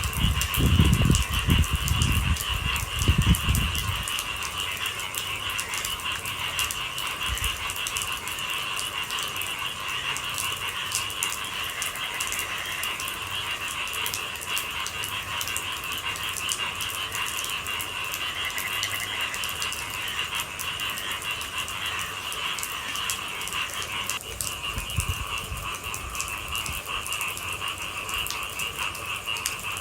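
Rain falling steadily under a continuous high-pitched trilling chorus of night animals. Low rumbling comes in the first few seconds and again briefly near the end.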